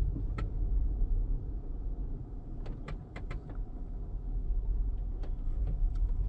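Car engine running with a steady low rumble, heard from inside the cabin, with a few faint sharp clicks scattered through, four of them close together around the middle.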